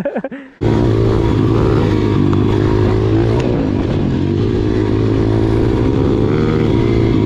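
Pit bike's small single-cylinder four-stroke engine running at a fairly steady speed, cutting in abruptly about half a second in.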